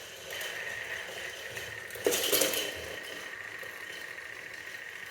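A steady high whine, like a small motor running, with a brief clinking rattle about two seconds in.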